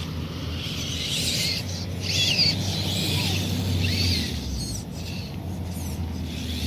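Birds chirping, several short bending calls in quick succession during the first few seconds, over a steady low rumble.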